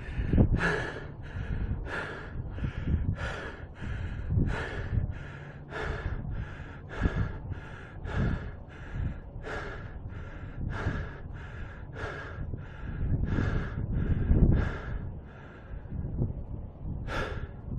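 A man panting hard after a steep climb, heavy breaths in and out close to the microphone, a bit under two a second, with one stronger breath near the end. He is out of breath from the exertion.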